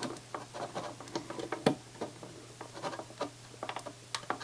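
Scattered small clicks and taps of metal parts and tools being handled while working on a CD player's circuit board and its metal cover, irregular and light, over a faint steady hum.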